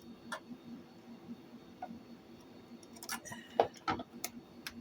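Scattered small clicks and taps of hands handling telephone wires and terminal connections, with a quick cluster of them about three to four seconds in.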